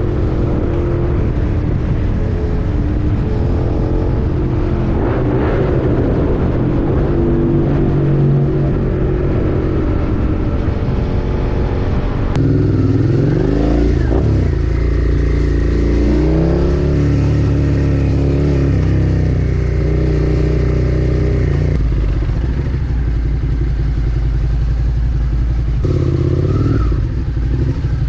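Suzuki SV650's V-twin engine running on the move, revving up and dropping back several times.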